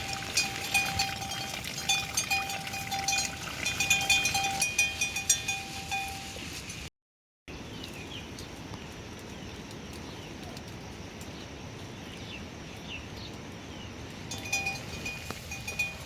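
Livestock bells clinking and ringing over and over for about six seconds, then a sudden brief cut-out of all sound. After it comes a steady hiss of rain, and the bells ring again near the end.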